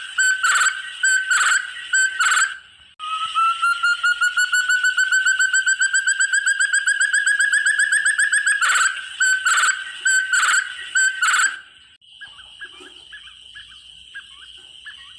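Forest partridge ('terung', puyuh hutan) calling: loud, spaced whistled notes, then a rapid trill of repeated notes that climbs slowly in pitch for about five seconds, then more spaced notes. From about twelve seconds in, only quieter chirps over a steady high hiss remain.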